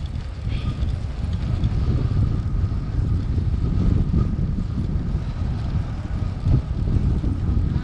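Wind buffeting the microphone: a loud, uneven low rumble, with a faint steady high tone for a couple of seconds in the first half.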